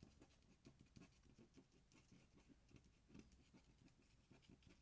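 Faint strokes of an ink pen on paper, short quick scratches at about three or four a second.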